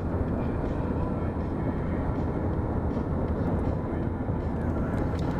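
Steady low rumble of a car driving on the road: road and engine noise with no change in speed.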